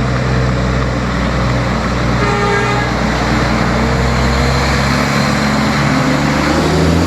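A rally vehicle's engine running with a deep, steady drone, rising in pitch as it revs up near the end.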